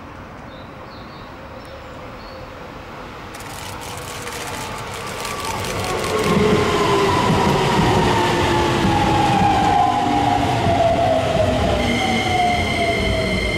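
Keikyu electric train coming in with wheel-on-rail rumble, its motor whine falling steadily in pitch as it slows. High steady squealing tones come in near the end.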